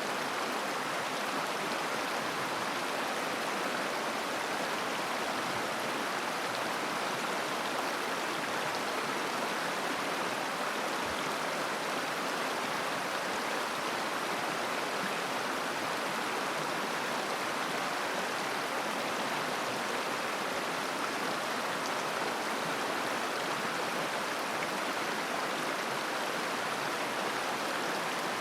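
River water babbling over stones: a steady, even rush of flowing water.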